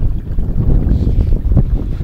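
Wind buffeting the microphone on a sail kayak under way: a loud, gusting low rumble.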